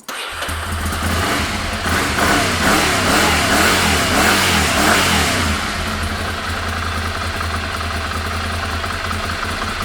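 Ducati Monster 696's air-cooled L-twin engine starting up and running, revved up and down a few times over the first five seconds, then settling into a steady, even idle.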